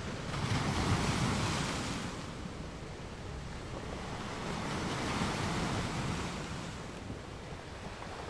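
Sea waves washing with wind noise on the microphone, an even rush that swells twice.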